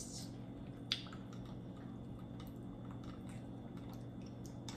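Faint chewing and small mouth sounds of people eating tortilla chips, over a steady low hum, with one sharp click about a second in.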